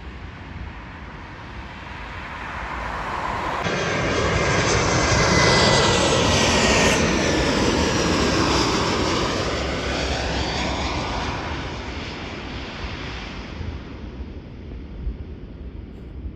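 Boeing 737 jet engines as the airliner comes in to land and passes by: the jet noise swells to a peak about five to seven seconds in, with whining tones that fall in pitch as it goes past, then fades away.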